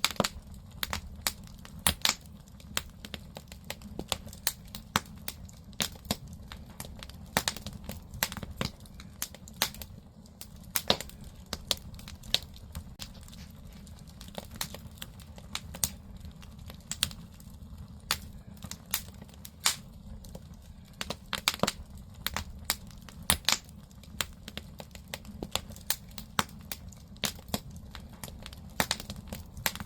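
Firewood burning in a traditional Korean agungi firebox: irregular sharp crackles and pops, several a second, over a low steady rumble of the fire.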